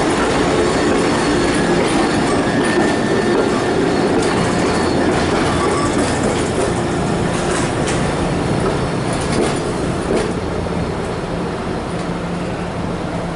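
SEPTA subway-surface trolley, a Kawasaki light rail car, running along the track: a steady rumble of steel wheels on rail with a low hum beneath, easing off slightly near the end.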